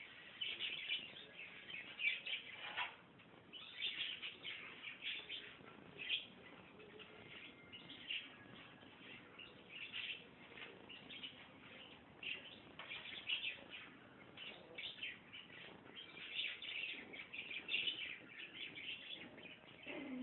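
Young puppies squeaking and whimpering in many short, high-pitched cries, one after another with brief pauses.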